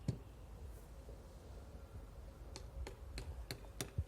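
Faint background noise with light, sharp clicks: one right at the start, then a run of about five clicks evenly spaced roughly a third of a second apart in the second half.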